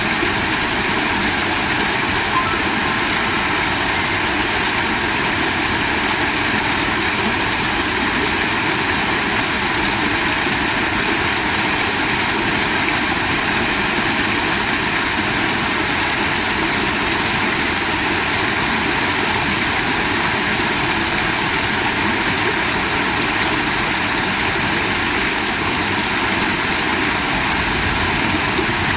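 Heavy rain falling steadily, a loud dense hiss that does not let up.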